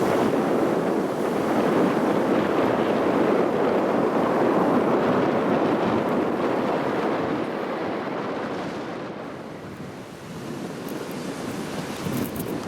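Typhoon-strength gusty wind buffeting the microphone: a heavy, even rushing noise that eases off about two-thirds of the way through and then picks up again.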